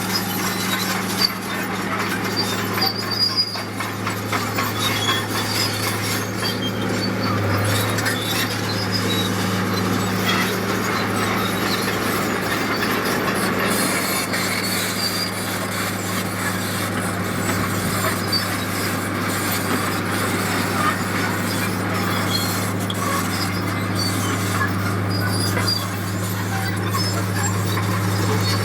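Heavy diesel construction machinery running steadily, a constant low engine drone under a noisy clatter, with scattered short high squeaks.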